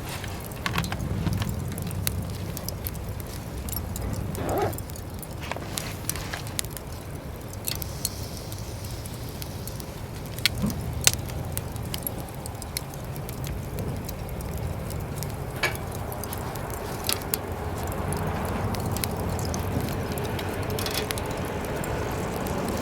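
Scattered sharp metallic clinks and clicks of barbecue gear being handled at a Uniflame Fire Grill fire pit, over a steady low rumble.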